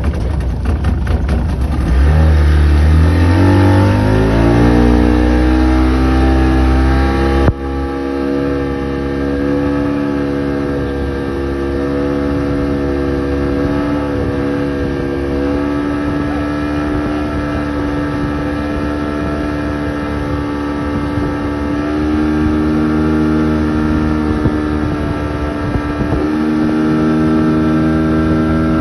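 Motorboat engine speeding up, its pitch climbing for several seconds. After an abrupt change about seven seconds in, it runs steadily at speed with small shifts in pitch.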